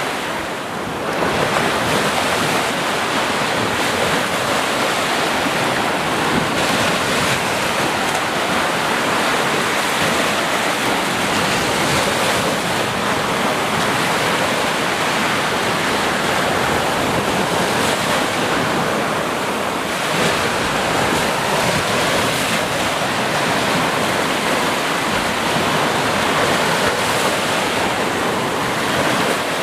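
Sea surf: waves breaking one after another in a continuous rushing wash, with brief lulls about a second in and again near the end.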